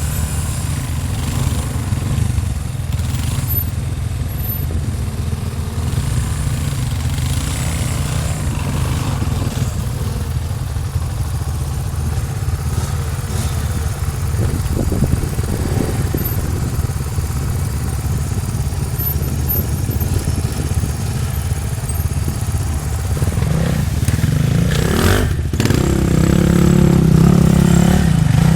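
Dirt bike engine running steadily as it is ridden, picking up and getting louder over the last few seconds, with a sharp knock about 25 seconds in.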